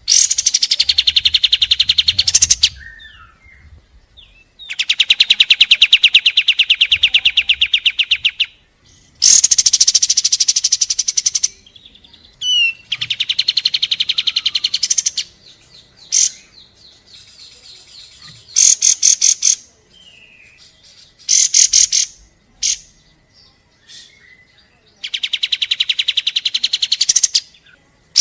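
Kapas tembak songbird singing its rapid 'shooting' song: loud bursts of fast, evenly repeated sharp notes, each lasting a second to a few seconds. Several bursts start higher and settle onto a steady pitch, with short pauses and a few brief single calls in between.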